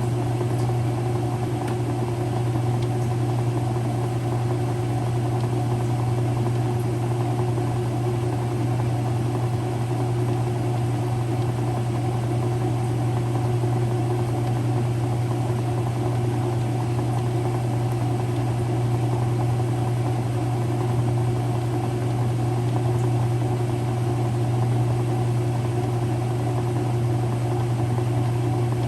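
Early-2000s Whirlpool direct drive washer running through its cycle: a steady motor and transmission hum with no pauses.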